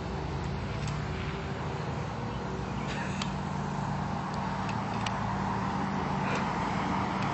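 Yamaha PW50's small 49cc two-stroke single-cylinder engine running steadily, its note holding at a fairly even pitch and growing a little louder in the second half.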